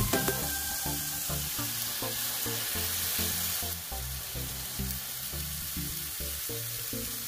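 Banana pancake batter sizzling steadily in hot sunflower oil in a frying pan, under background music with a steady beat.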